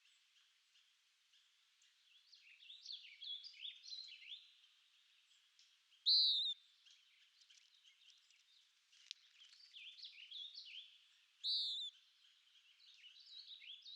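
Wild songbirds chirping and trilling in quick, overlapping phrases, with two louder, clearer calls about six and eleven and a half seconds in.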